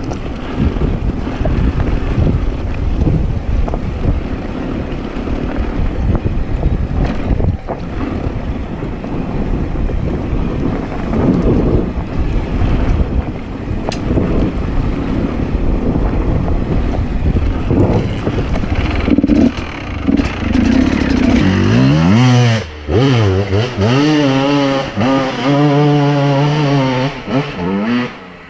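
Enduro dirt bike engine running over rough ground, buried in a dense rumble for most of the stretch, then revving up and down in repeated short blips near the end.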